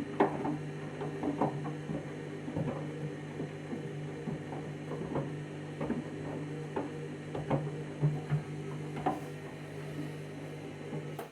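Candy washing machine's drain pump running with a steady electric hum, with irregular light clicks and knocks, as it pumps the wash water out. The hum cuts off abruptly at the end.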